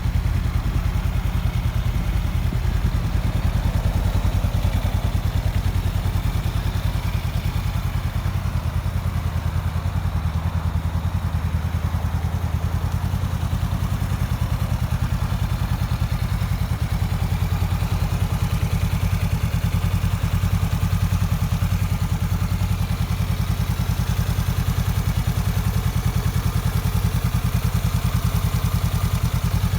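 Honda CB500X's parallel-twin engine idling steadily through an aftermarket Fuel carbon exhaust, with an even, rapid low pulse and no revving.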